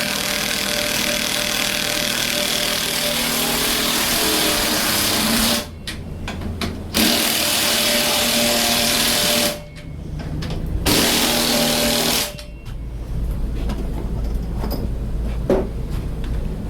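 Power drill running under load in three bursts, the last two shorter, boring through the beam. After the third burst a low steady rumble continues.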